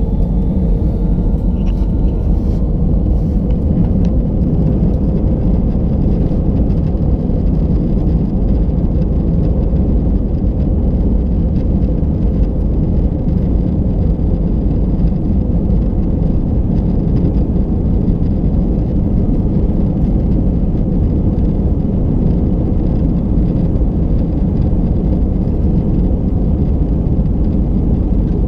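Airbus A319 engines at high thrust during takeoff, heard inside the passenger cabin as a steady, loud low rumble with a faint steady hum above it.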